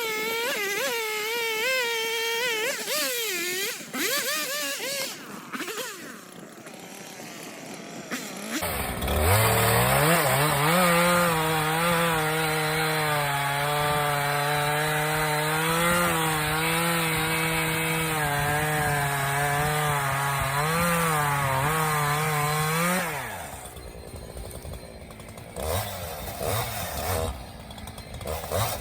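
Two-stroke chainsaw running lean, by the owner's account, because its carburettor still needs tuning. It revs high and unevenly at first. From about nine seconds in it holds a steady pitch under load while cutting into maple for some fourteen seconds, then drops back.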